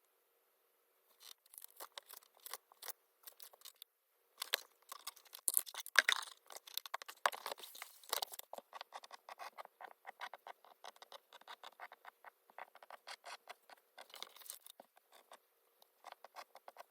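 A dense run of small, light clicks and scratches, busiest and loudest about four to eight seconds in, then a steadier patter of lighter taps.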